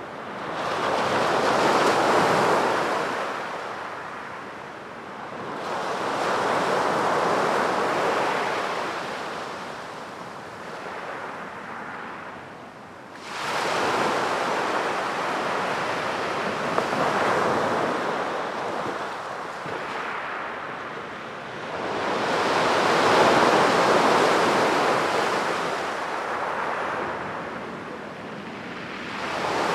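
Sea waves breaking on a beach, the surf swelling up and fading away in slow surges every several seconds. One wave comes in abruptly about halfway through.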